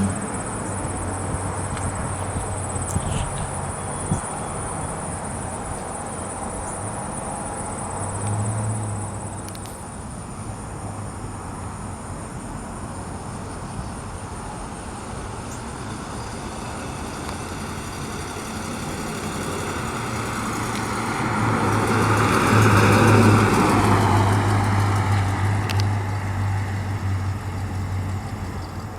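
A 1969 Oldsmobile Delta 88's 455 V8 driving, its engine and tyre sound swelling as the car passes close by about three-quarters of the way in, then fading. Insects chirp faintly and steadily in the background.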